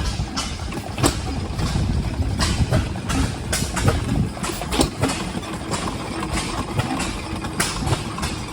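An old engine running at idle, a steady low rumble broken by sharp pops at uneven intervals.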